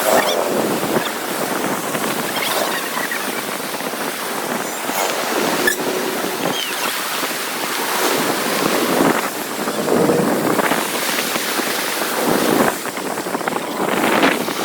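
Floodwater rushing and splashing in a steady, loud noise, with wind buffeting the microphone.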